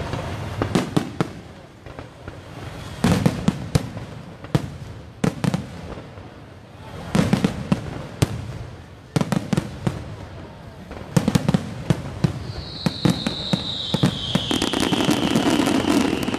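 Aerial fireworks bursting overhead, clusters of sharp bangs and crackles every second or two. A high whistle falls slowly in pitch over the last few seconds.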